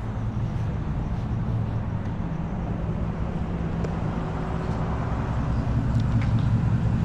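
Car engine running with a steady low drone, getting a little louder about six seconds in.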